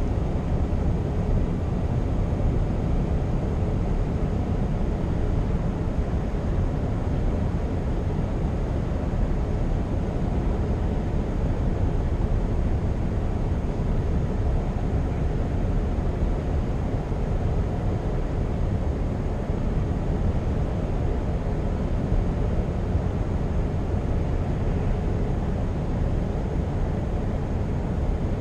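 Scania R520 truck's 16-litre V8 diesel running steadily on the road, with a constant low rumble of engine and tyre noise.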